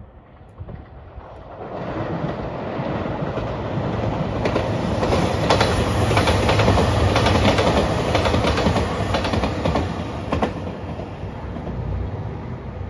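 Four-car JR Shikoku 2700 series diesel express train passing close by: a diesel engine drone with wheels clacking over rail joints. It builds from about two seconds in, is loudest in the middle, then fades as the train draws away.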